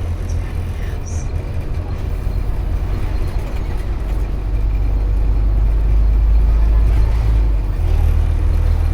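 Scania OmniCity N230UD double-decker bus's five-cylinder diesel engine running, heard from on board as a steady deep rumble. Its low note changes pitch near the end.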